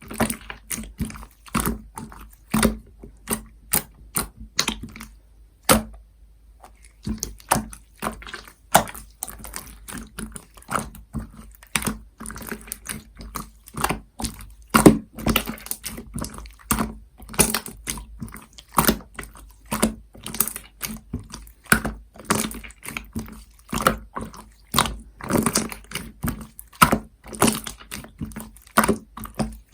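Opaque slime being squeezed and pressed by hand, making rapid irregular wet clicks and pops, with a short lull about five seconds in.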